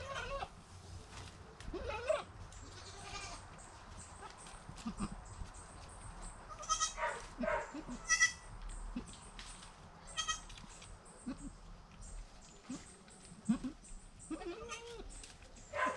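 Goats bleating: a string of short, separate bleats throughout, several of them high-pitched.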